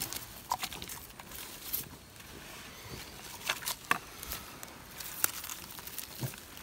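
Footsteps in dry leaf litter and twigs: irregular crackles, rustles and snaps, with a sharper snap about four seconds in and another a little after five.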